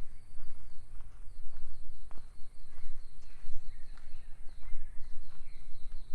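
Footsteps walking on a forest trail, heard as scattered soft knocks, over a steady low rumble. A high, rapidly pulsing trill from a calling animal starts just after the beginning and carries on throughout.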